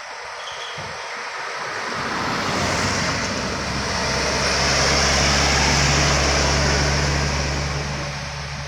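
A loaded truck driving past up a slope, its engine running steadily under load over tyre and road noise. The sound builds over a couple of seconds, is loudest a little past halfway, then fades as it moves away.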